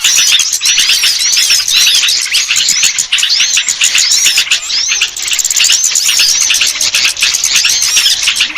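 Dense chorus of many small songbirds chirping and twittering at once, with rapid high-pitched calls overlapping continuously. It is a bird-lure (pikat) recording meant to draw wary small birds down.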